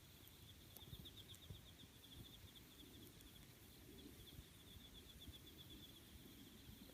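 Faint campfire with a few soft crackles over a low rumble, while an insect trills steadily and fast in the background.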